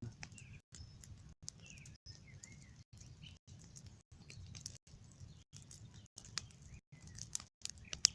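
Bonfire of raked debris burning down, crackling with many small sharp pops and one louder pop near the end, with small birds chirping over it.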